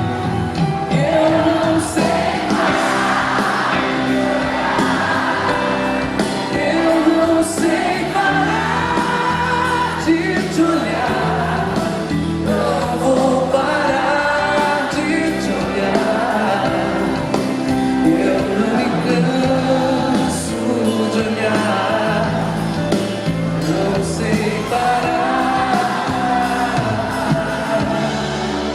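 Live band playing a slow ballad, with singing over it.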